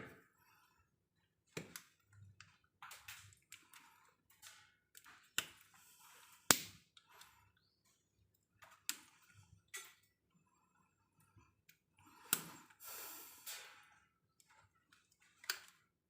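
Sporadic sharp clicks, taps and knocks of tools and hardware being handled during work on an electrical distribution panel. The loudest is a single sharp click about six and a half seconds in, and there is a brief scraping rustle a little after halfway.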